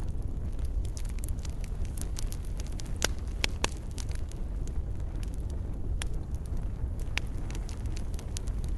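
Fireplace fire crackling: a steady low rumble of flame with irregular sharp pops and snaps, a few louder pops about three seconds in, around six seconds and about seven seconds in.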